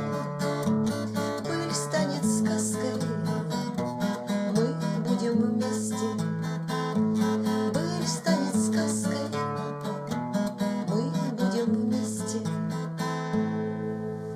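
Instrumental ending of a song: an acoustic guitar strums a steady rhythm over sustained low notes, tapering off near the end.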